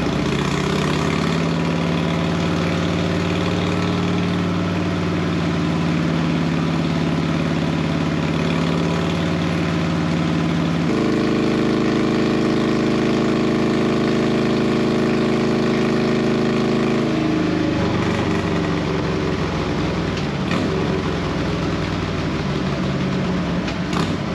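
Harley-Davidson Road King's 103 cubic inch V-twin, fitted with a 2-into-1 exhaust, running on a dynamometer during a tuning session: it holds one steady speed, steps up to a higher steady speed about 11 seconds in, holds there, then drops back around 17 seconds. Large shop cooling fans blow throughout.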